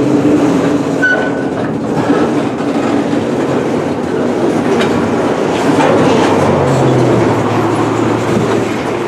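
Loaded freight flatcars rolling past close by, their steel wheels clattering and clicking on the rails in a steady rumble.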